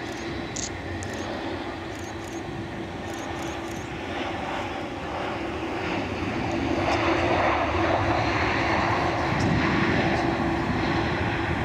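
Airliner jet engines running, a steady hum with a low steady tone that swells louder about six seconds in.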